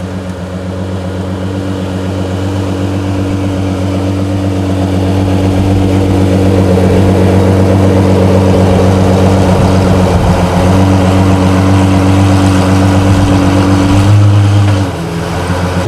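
De Tomaso P72's engine running at a steady low speed, without revving, getting louder over the first several seconds. About fourteen seconds in it swells briefly, then drops back a little.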